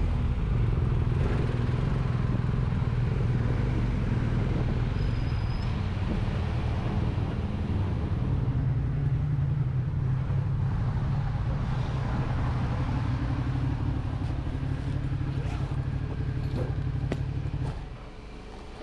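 A vehicle engine running steadily with a low hum, then dropping away abruptly about a second before the end.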